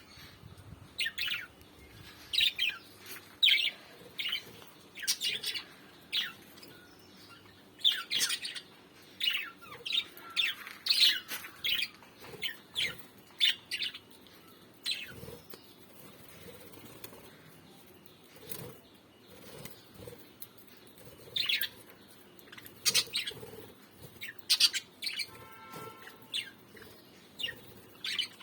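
Small pet parrots chirping: short, shrill calls in irregular bursts, with a quieter stretch midway. Near the end comes one brief call with a steadier pitch.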